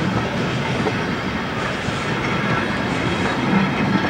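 Passenger coaches of a steam-hauled train rolling past close by, their wheels running over the track in a steady rumble.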